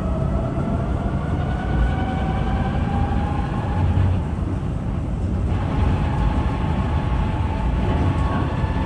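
Tram running on its rails: a constant low rumble of wheels on track, with the electric traction motors' whine rising in pitch as it picks up speed. The whine fades about four seconds in, then returns steadier from about five and a half seconds.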